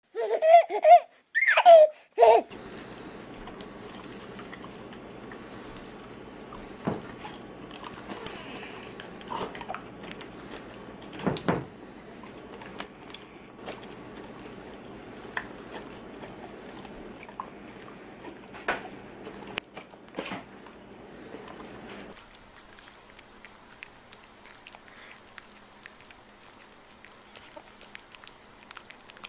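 A dog licking and smacking at sticky peanut butter, with scattered wet mouth clicks over a steady room hiss. Short loud bursts of laughter at the start.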